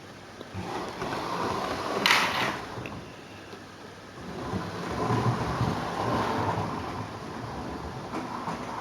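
Model train running along the layout's track, a rumble that swells as it passes close about two seconds in, fades, then swells again around five seconds in.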